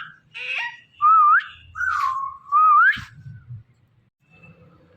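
Indian ringneck parrot whistling: four short whistles with a wavy, rising pitch in the first three seconds.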